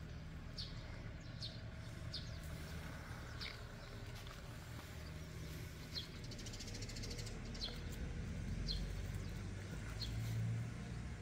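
A bird chirping on and off, short high falling chirps roughly once a second, with a buzzy trill about six seconds in. A steady low rumble runs underneath.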